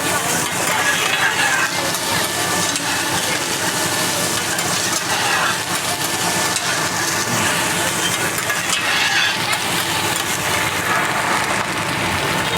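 Fried rice sizzling on a hot teppanyaki iron griddle as it is stirred and scraped with metal spatulas, a steady frying hiss.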